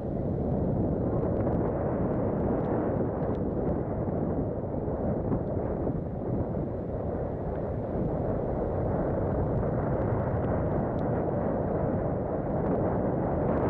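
Steady rumbling wind buffeting on a camera microphone while riding a mountain bike along a dirt trail, with tyre and trail noise and a few small rattles and clicks.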